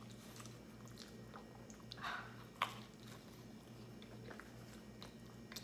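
A person biting into and chewing a slice of vegetable-topped pizza, with faint scattered mouth clicks and one sharper click about two and a half seconds in, over a low steady hum.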